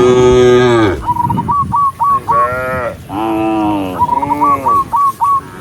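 Cows mooing: several long moos one after another, the first carried over from just before, with short high chirps repeated between the calls.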